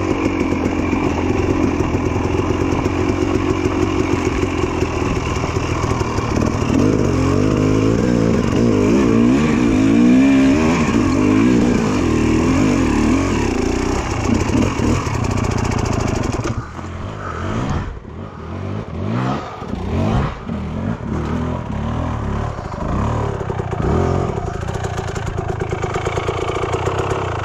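Two-stroke dirt bike engine running hard under throttle with wavering revs for about the first sixteen seconds, then dropping to lower, uneven throttle blips.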